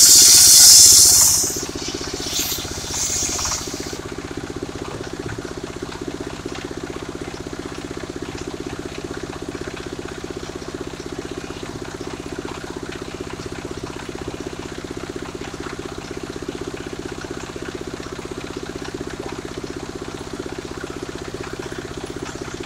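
Engine-driven mobile circular saw: a loud hissing cut of the blade through sengon wood for the first second and a half, two shorter cuts a couple of seconds later, then the engine and spinning blade running steadily.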